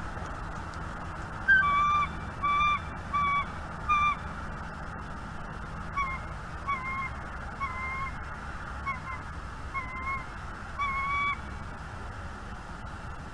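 A bird calling in short, clear, evenly pitched notes about half a second apart: a run of four louder notes, then after a pause a quieter run of about six.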